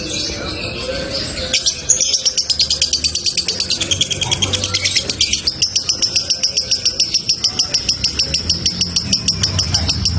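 Male lovebird's long 'ngekek' chatter: a fast, unbroken run of high, repeated notes, about six a second, starting about a second and a half in.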